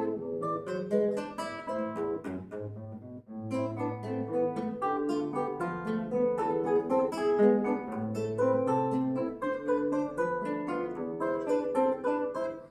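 Acoustic guitar playing an instrumental piece, a steady run of plucked notes and chords.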